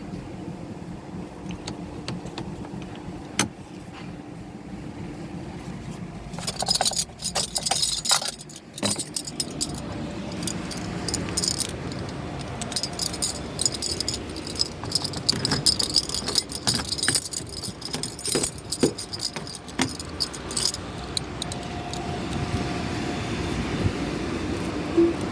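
Automatic tunnel car wash working on a car: a steady low hum of machinery, then from about six seconds in a dense clatter of hissing and rapid clicks and slaps.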